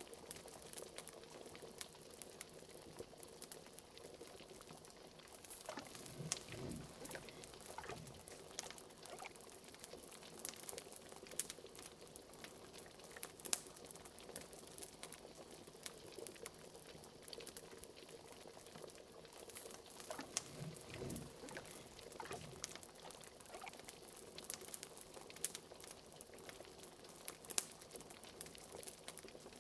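Liquid bubbling at a steady boil, like a cauldron, with frequent small sharp pops and crackles from a fire. Deeper gurgles come twice, about six seconds in and again around twenty seconds.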